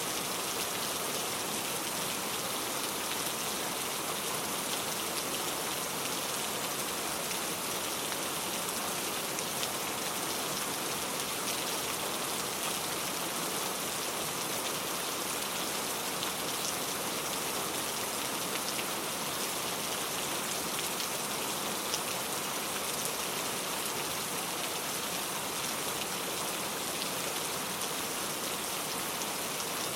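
Steady rain falling on a surface, an even hiss of many drops with faint scattered patters.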